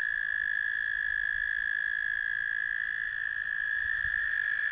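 Chorus of frogs calling at a breeding pond, blending into one steady, unbroken high trill.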